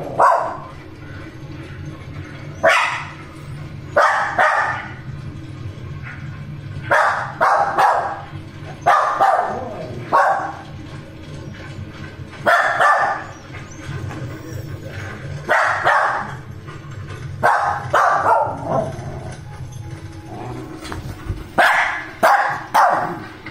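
Husky barking repeatedly: about a dozen short, loud barks spaced a second or two apart.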